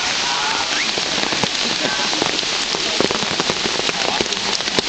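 Steady rain falling, with many sharp taps of drops landing close by.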